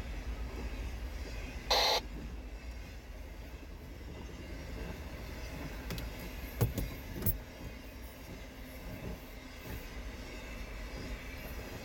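Cars of a CSX intermodal freight train rolling past, a steady low noise of steel wheels on rail. A short burst of hiss comes about two seconds in, and a couple of sharp clanks come between six and a half and seven and a half seconds in.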